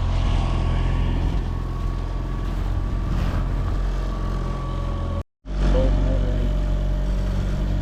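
Boat's outboard motor running at a steady speed, with rushing noise over it. The sound cuts out completely for a moment about five seconds in, then resumes.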